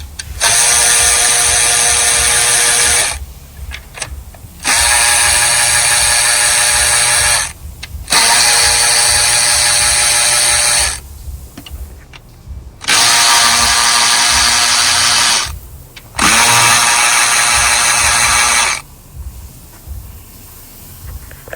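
Power drill with an 8 mm socket spinning out intake manifold bolts: five steady whining runs of about three seconds each, with short pauses between bolts.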